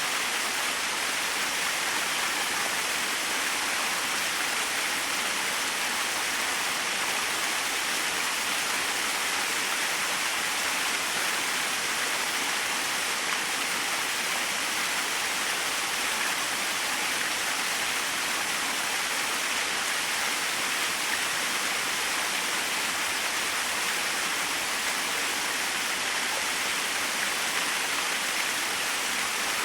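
A small waterfall splashing steadily: an even rush of falling water without breaks or changes.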